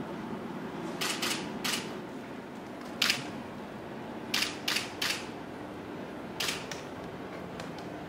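Camera shutter firing about nine times in short bursts of one to three frames.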